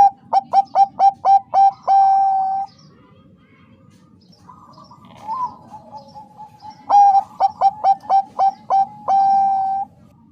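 Zebra dove (Bangkok-strain perkutut) singing its song twice: each phrase is a quick run of about seven short rolling coo notes that ends in one long held coo. A softer single coo comes between the two phrases.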